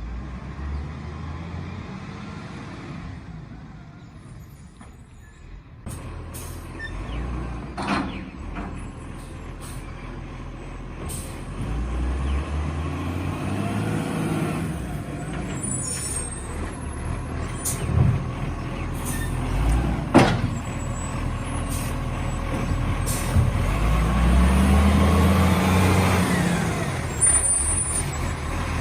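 Garbage truck at work: its diesel engine revs up and settles back twice while the lifting hydraulics run, with a few sharp knocks and clanks and air brake hiss.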